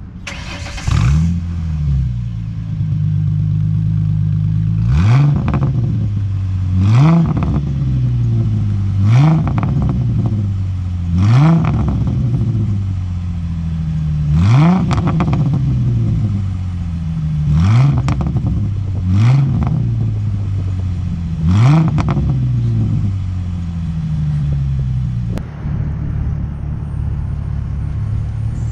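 2006 Ford Mustang's 4.0-litre V6 through an SLP Power-Flo exhaust, blipped about nine times from idle, each rev rising sharply and falling back to idle, then left idling near the end.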